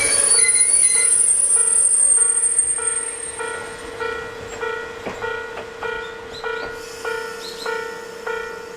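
A high, wavering squeal from the slowing train's wheels and brakes, fading out about four seconds in, while a level-crossing bell rings steadily at about one and a half to two strikes a second.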